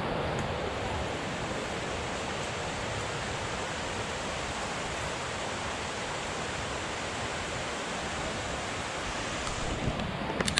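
Steady rush of a waterfall some way below, with a few short knocks near the end.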